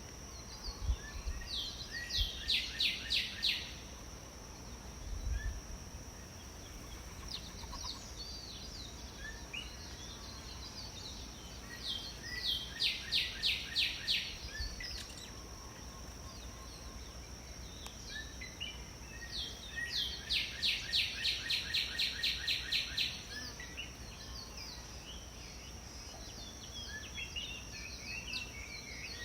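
A songbird singing a phrase of rapid repeated notes, about five or six a second, three times roughly eight seconds apart, with another phrase starting at the very end. A steady high-pitched tone runs underneath.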